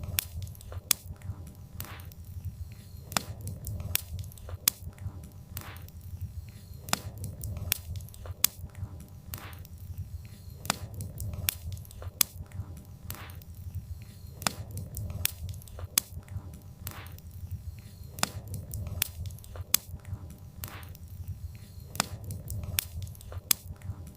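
Wood fire burning, with irregular sharp pops and snaps of the firewood over a low steady rumble of the flames.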